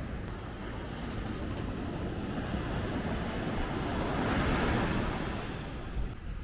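A vehicle passing on a wet road: the tyre hiss swells up, peaks and fades away, over steady wind-like background noise.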